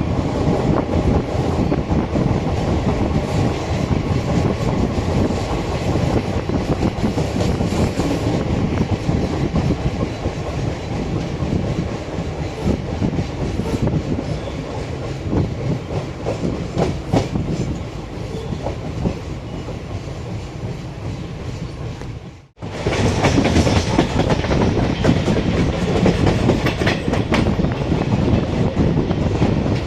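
Begampura Express passenger train running fast, with a steady rolling rumble and wheels clattering over the rail joints. The sound drops out abruptly about three quarters of the way through, then comes back louder.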